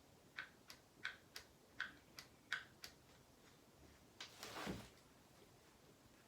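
Light hard clicks, about eight of them at roughly three a second, then a short scraping rustle about four and a half seconds in: small parts or tools being handled during assembly work.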